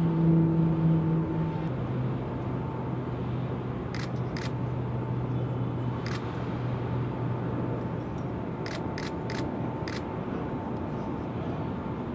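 Steady vehicle or engine noise with a low hum that drops in pitch about two seconds in, and a scattering of sharp clicks like camera shutters, several of them in quick succession.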